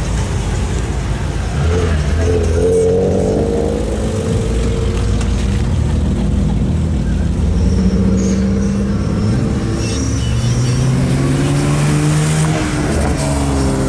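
BMW E30 325i's straight-six running as the car drives off, its pitch rising as it revs. Later a BMW E92 335i coupe accelerates past, its engine note climbing.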